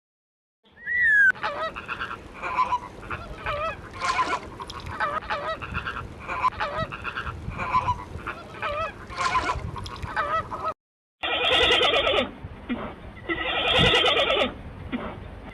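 Short, repeated animal calls, one or two a second, for about ten seconds. After a brief cut to silence, a louder and denser run of calls follows.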